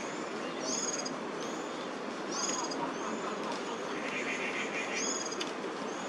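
A small bird calling repeatedly with short, high, thin notes, in pairs about once a second, over a steady background hum; a short buzzy rattle comes in about four seconds in.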